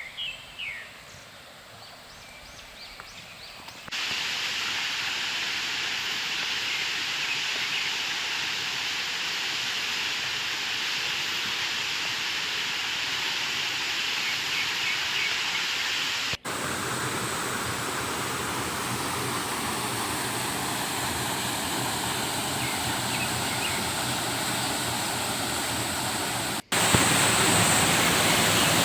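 Waterfall: a steady rushing of falling water that comes in about four seconds in, breaks off for an instant twice, and is louder near the end.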